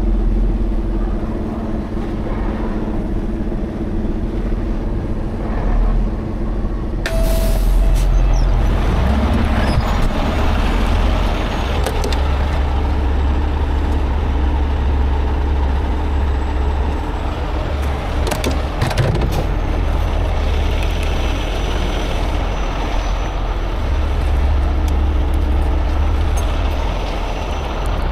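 Heavy tow truck's diesel engine running with a steady low rumble while the truck is repositioned, with a short sharp hiss about seven seconds in.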